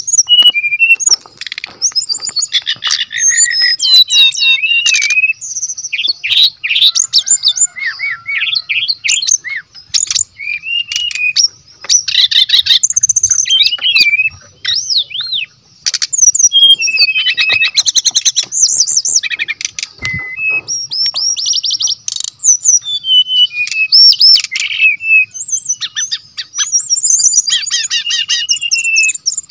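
Brown-chested jungle flycatcher singing loudly and almost without pause: a fast, varied song of warbled phrases, rapid trills and chattering runs.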